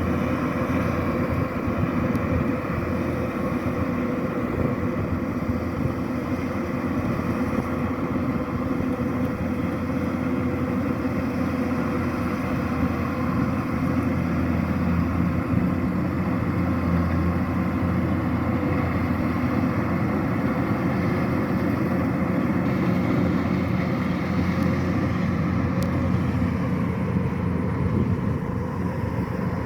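Kubota DC-105X combine harvester running steadily, its diesel engine and machinery making a constant drone. The engine note shifts slightly about halfway through.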